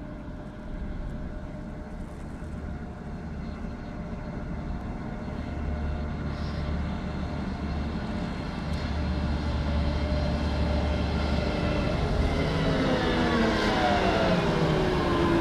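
Combine harvester running steadily, with a deep low hum that grows gradually louder; over the last few seconds several machine tones slide downward in pitch together.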